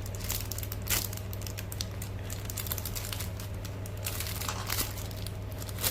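Soft crinkling and rustling of plastic as squishy toys are handled, with a sharp click about a second in, over a steady low hum.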